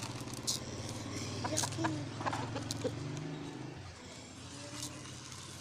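Chickens clucking in short calls, over the steady low drone of a motor vehicle engine that fades out about four seconds in.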